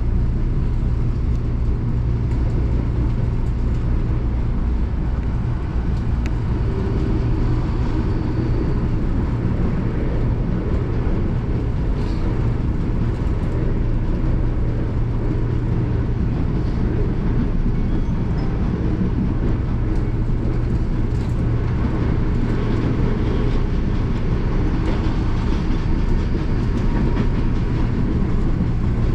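Electric commuter train running on the track: a steady low rumble with a few faint wheel clicks.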